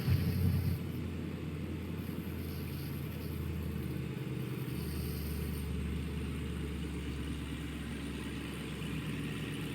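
Chevrolet Camaro SS 6.2-litre V8 with a straight-piped exhaust just after a cold start: the start-up flare dies down within the first second, then the engine settles into a steady fast idle.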